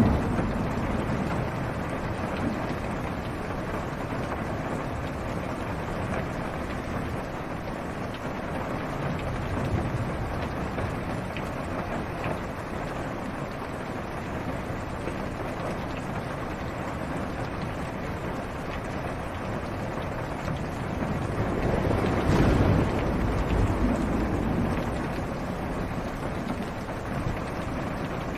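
Steady rain on a car's roof and windows, heard from inside the cabin. About three quarters of the way through, a low rumble of thunder swells and fades over a few seconds.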